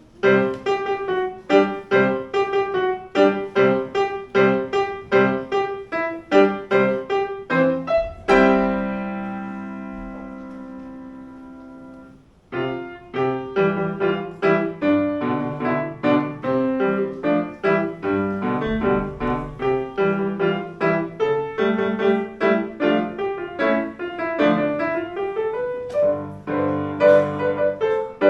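Piano playing a march in short, rhythmic repeated chords. About eight seconds in, a held chord rings and fades for several seconds before the playing starts again.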